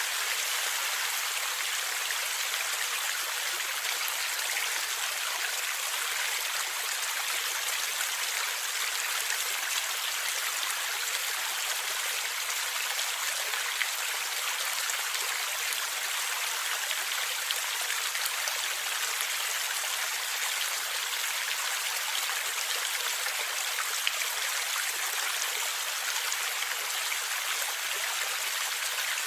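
Stream of water flowing and gurgling steadily, a constant splashing rush with many small droplet sounds.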